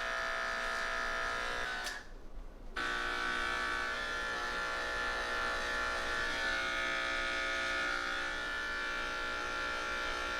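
Electric pet grooming clippers buzzing with a steady hum. They switch off for about a second near two seconds in, then run again.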